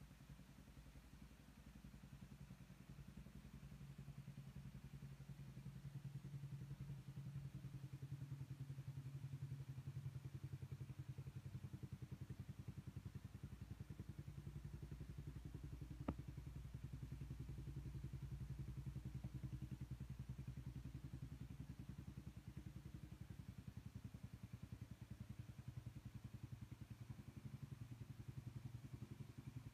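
Yamaha Raptor 700 ATV's single-cylinder four-stroke engine idling steadily through an aftermarket Hindle exhaust, a fast even low pulse that grows louder over the first few seconds. A single sharp click about sixteen seconds in.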